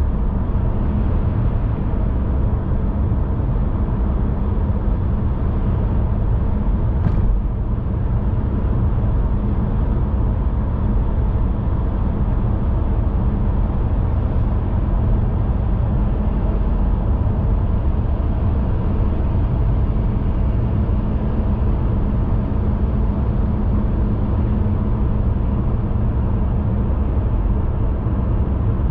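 Steady low rumble of a car being driven: road and tyre noise with the engine underneath. A brief faint tick about seven seconds in.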